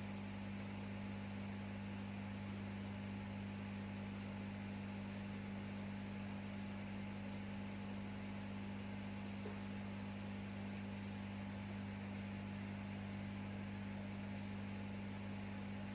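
Steady electrical mains hum, a low buzz that does not change, with a faint hiss over it.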